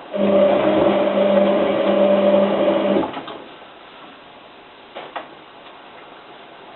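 Hotpoint 9534A washing machine's drum motor turning the drum for about three seconds with a steady hum, then stopping sharply, part of the tumbling action of a main wash. A couple of faint clicks follow about five seconds in.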